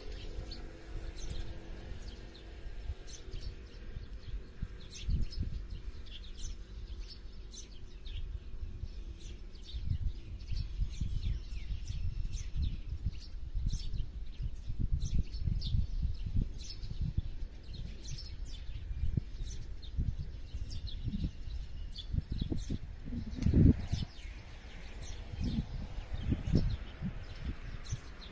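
Small birds chirping and calling in quick, short, high notes, many overlapping, over an uneven low rumble with occasional thumps, the strongest about three-quarters of the way through.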